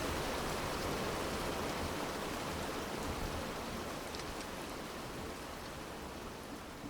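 Rain ambience: an even hiss of rain with a few faint drip ticks, slowly fading out.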